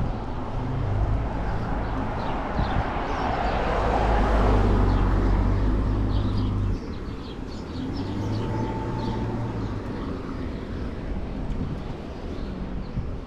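City street traffic heard from a moving bicycle: a steady low rumble that drops away suddenly about seven seconds in, with a vehicle swelling past in the first half.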